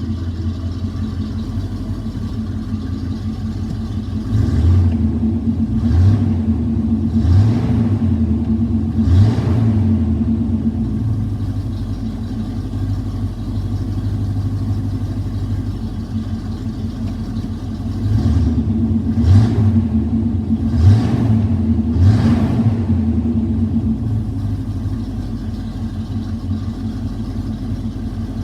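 1986 Chevy C-10's 305 small-block V8 idling and being blipped with the throttle: four short revs in quick succession, back to idle, then another group of four short revs later on, dropping back to a steady idle.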